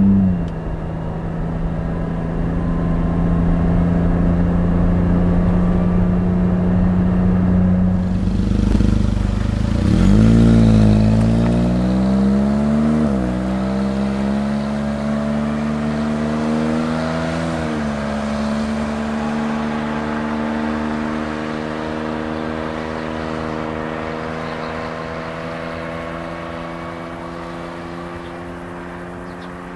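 Suzuki Jimny JB64W's 660 cc turbocharged three-cylinder engine and exhaust, with the engine running at a steady note at first. About ten seconds in, it accelerates: the pitch rises and drops back twice as the automatic gearbox shifts up. It then runs steadily while the sound slowly fades.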